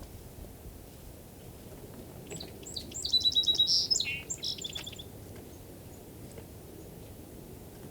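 A songbird singing one song of rapid high chirps and trills, about two seconds long, starting a couple of seconds in, over faint steady outdoor background noise.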